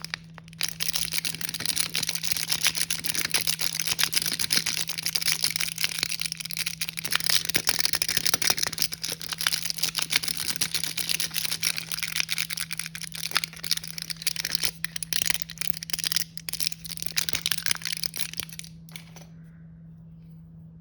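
Plastic snack packaging being handled and crinkled, a dense crackle that goes on for most of twenty seconds and stops near the end, over a steady low hum.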